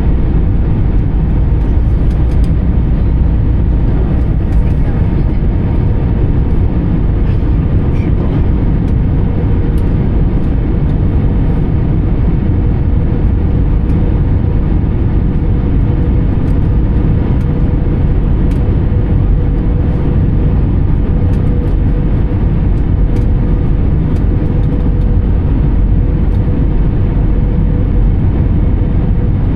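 Steady cabin noise inside an Airbus A320 in flight: the rush of air and the CFM56 turbofans running evenly, with a faint steady whine held throughout.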